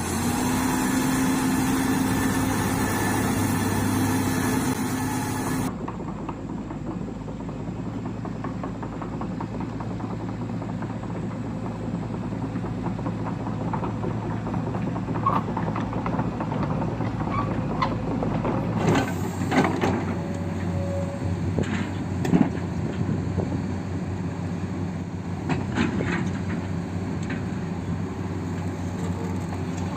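Small electric motors and gearboxes of remote-control construction models running steadily with a whine, followed after about 19 seconds by many sharp clicks and knocks, like soil and stones being pushed and tipped.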